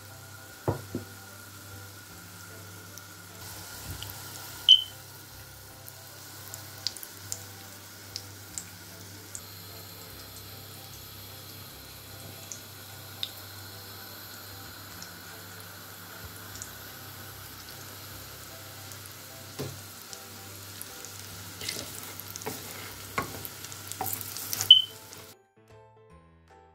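Breaded fish cutlets shallow-frying in hot oil in a pan: a steady sizzle with scattered crackles and pops. There are a few louder knocks, and the sound gets busier just before it stops abruptly near the end.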